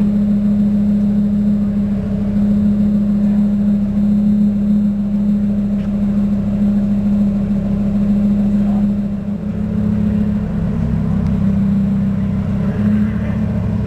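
Lamborghini Huracán LP610-4's V10 engine idling steadily with a steady low drone; its note shifts lower and rougher about nine and a half seconds in.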